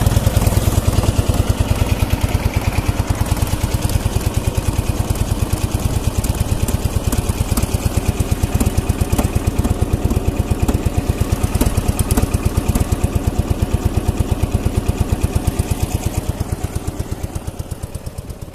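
Soviet MT-9 motorcycle's flat-twin engine running at idle with an even, regular beat, dying away and slowing near the end as it shuts down.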